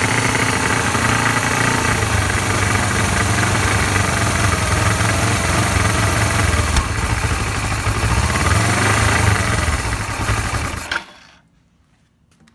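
Suzuki GS500 air-cooled parallel-twin engine idling steadily, then shut off about eleven seconds in, leaving near quiet with a few faint clicks.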